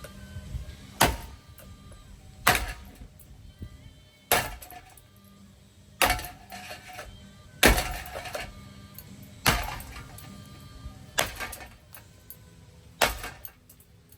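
Hugger-style ceiling fan being smashed apart with repeated hard blows: about eight heavy strikes, one every one and a half to two seconds, each with a short clattering ring, and lighter knocks in between.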